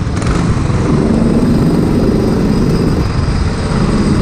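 Racing kart engines running steadily, a loud small-engine drone.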